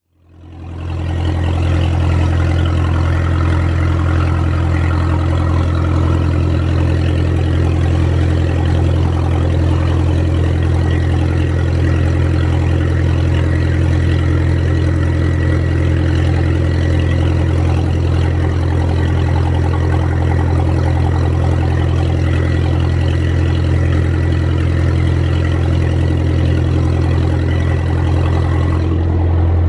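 Yanmar 4JH2-DTZ four-cylinder turbocharged marine diesel running steadily under way, with a strong low hum and a rushing hiss over it. It fades in over the first second.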